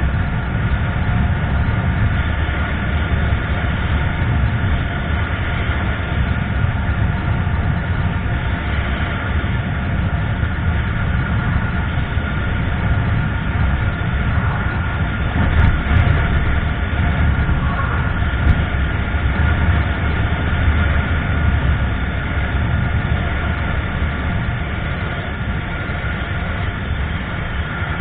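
Steady wind and road rumble while riding a motorcycle, with the engine running at an even speed underneath.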